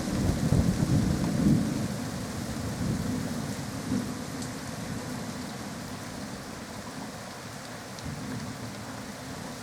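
Thunder rumbling, loudest in the first couple of seconds and then slowly dying away, over a steady hiss.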